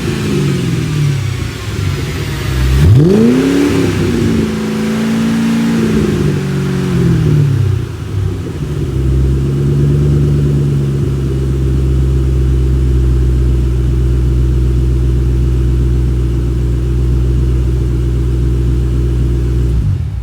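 2005 Ford Mustang GT's 4.6-litre V8 through a Borla S-Type axle-back exhaust, being revved. The revs fall away, one quick sharp rev about three seconds in drops back down, and the engine then settles to a steady idle that cuts off suddenly at the very end.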